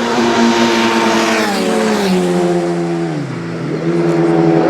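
A road-racing motorcycle's engine at high revs passes and its pitch falls as it goes by and slows. It then picks up again twice, each time with a brief drop in pitch and a climb, like shifting up through the gears.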